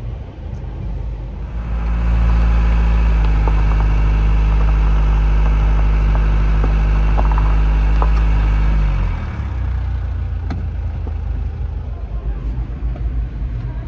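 A vehicle engine running at a steady pitch with a low rumble. It grows louder about a second and a half in, holds for about seven seconds, then drops back.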